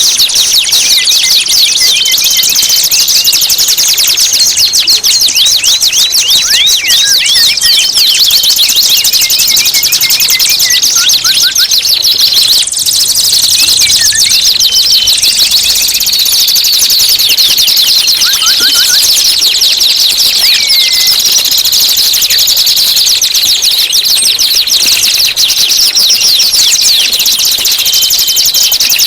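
Songbird masteran recording: a dense, unbroken stream of rapid high-pitched chirps and trills, with occasional short whistled notes lower down.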